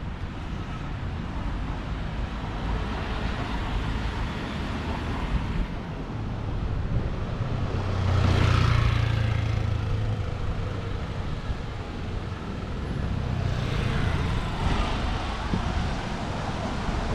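Street traffic with a steady low rumble. A vehicle passes close by about halfway through, with a low engine hum, and another passes near the end.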